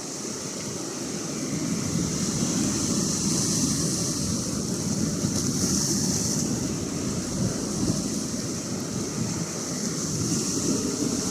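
Atlantic Ocean surf: a steady rush of waves that swells and eases every few seconds.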